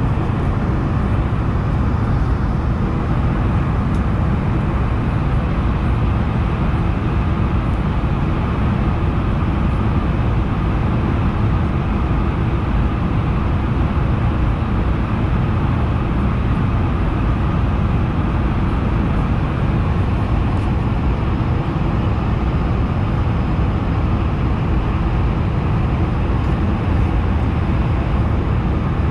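Steady cabin noise aboard an Airbus A220-100 airliner: an even rumble of the Pratt & Whitney geared turbofan engines and rushing airflow, loudest in the low range.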